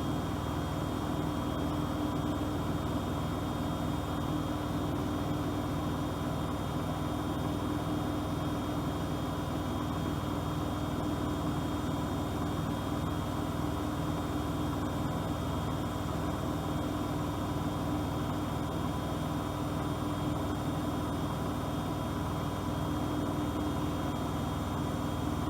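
Bosch Aquasensor WFP3231 washing machine running, a steady motor hum with a constant mid-pitched whine that holds unchanged throughout.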